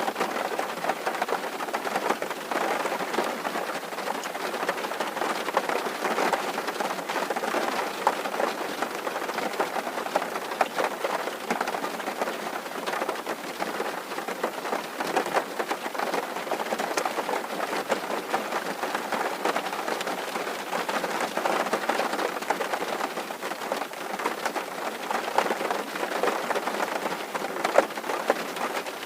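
Steady rain drumming on a tin roof: a dense patter of drops striking the metal sheeting.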